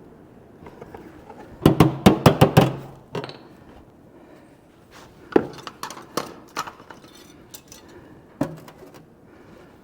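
Body hammer tapping a sheet-metal patch panel into the rust-repair opening in a Mazda Miata's rear quarter panel: a quick run of about six sharp metallic strikes a couple of seconds in, then a few single taps.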